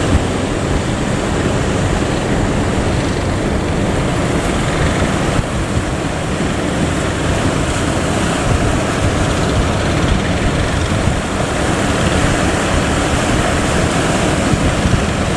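Steady noise of wind buffeting the microphone and sea waves, with a boat's engine running underneath.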